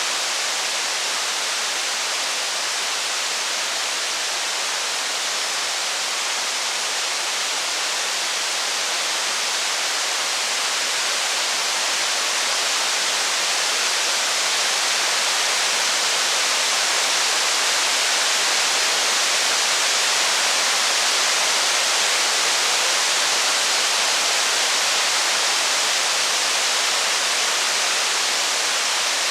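Steady rain falling in an even, continuous hiss.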